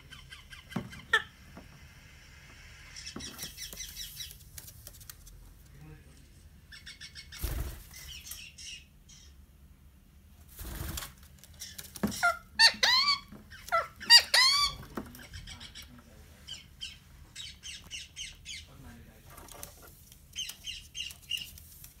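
Bird calls: scattered quick chirps and chattering, with a handful of louder arching calls in the middle, and a couple of dull thumps.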